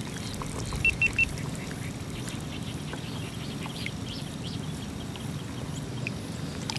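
A bird giving three short, high chirps in quick succession about a second in, over a steady low background noise.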